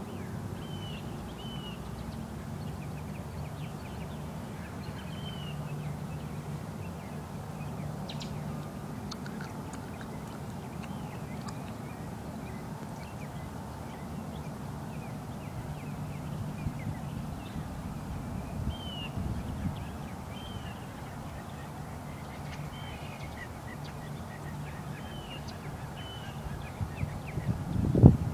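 Birds chirping, short rising-and-falling calls every few seconds, over a steady low hum. A louder low rumble near the end.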